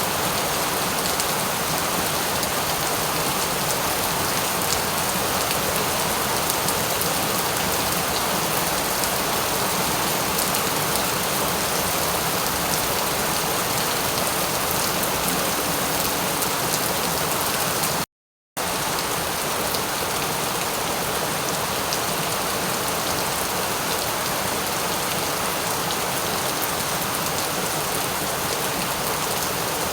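Steady rain falling, an even hiss with fine pattering drops. The sound cuts out completely for about half a second about two-thirds of the way through, then resumes unchanged.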